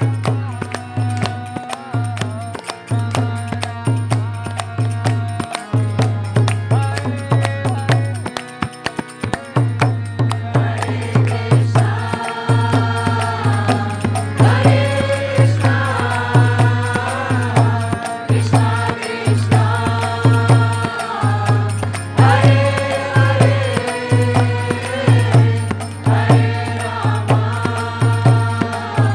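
Devotional kirtan: voices chanting a mantra in repeated sung phrases over a steady rhythmic accompaniment. The singing grows stronger about halfway through.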